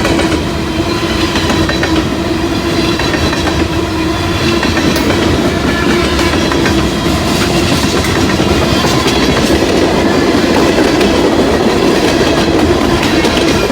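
Freight cars of a mixed manifest train rolling past, with a steady rumble and wheels clicking over the rail joints.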